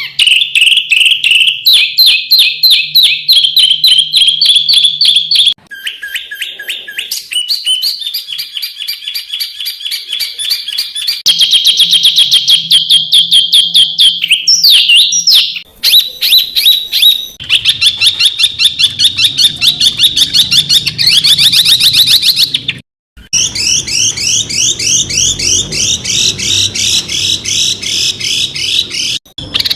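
Songbird song recordings spliced one after another: rapid-fire trains of sharp, high repeated notes ('tembakan'), a few a second up to many a second, with the bird and phrase changing abruptly every few seconds.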